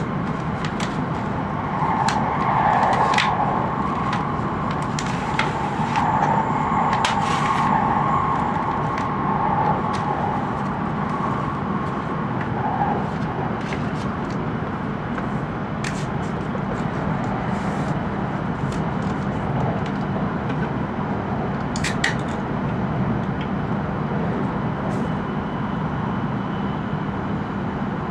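Cabin running noise of an E5 series Shinkansen train in motion: a steady rumble with scattered sharp clicks and creaks. The noise swells louder for several seconds about two seconds in, then settles.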